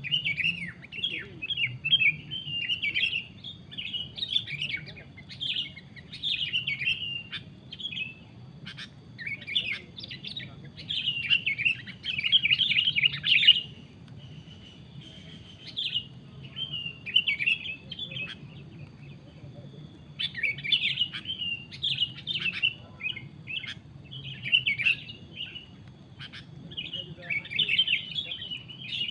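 Sooty-headed bulbul (kutilang) calling in rapid chattering bursts of a second or two, again and again with short pauses.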